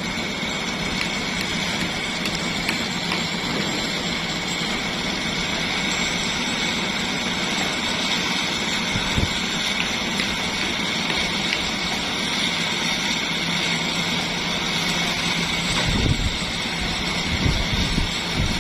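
Engine-driven construction machinery running steadily, with a constant high whine over its drone and a few dull low knocks near the end.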